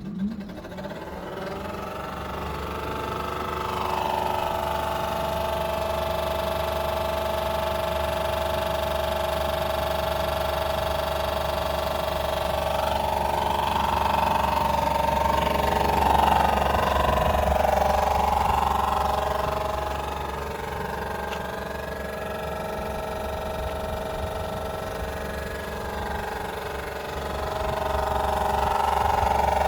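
Tesla Model 3 fans running very loud: a steady hum under a whine of several tones that shift slightly in pitch. It swells a few seconds in, eases about two-thirds of the way through, then rises again near the end.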